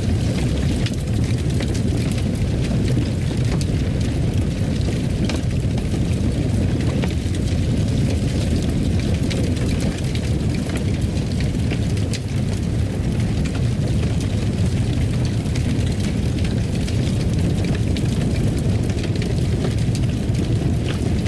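Fireplace fire burning: a steady low rumble with scattered faint crackles and pops.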